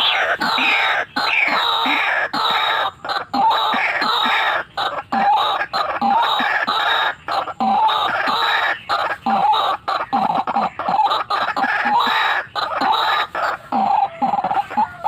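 White-breasted waterhen (ruak-ruak) calling: a dense, loud run of short, repeated, overlapping calls that briefly cut out now and then.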